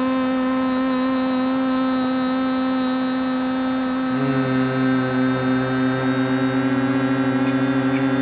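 Steady electrical hum of high-voltage power lines on a steel transmission tower. About four seconds in, a second, deeper hum joins and the sound starts to pulse evenly.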